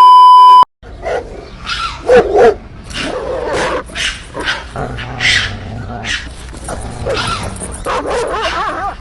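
A loud steady electronic beep lasting under a second, then a dog barking and whining over and over, with short yips and wavering whimpers.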